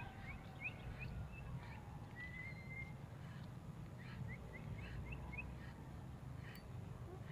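Short high bird chirps and one brief held whistle, over a steady low rumble.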